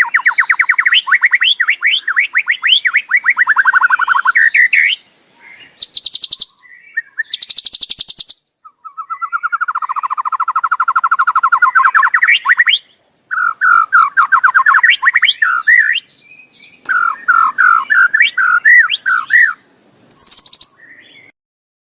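White-rumped shama giving its rattling "kretekan" call: fast trains of repeated harsh notes in bouts of a few seconds, broken by short pauses and a few brief higher notes. It is the excited, aggressive call that keepers play to provoke rival shamas.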